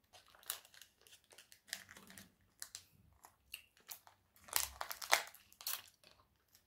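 A person chewing a small candy with the mouth closed: soft, irregular wet clicks and smacks, with a louder cluster about four and a half to five seconds in.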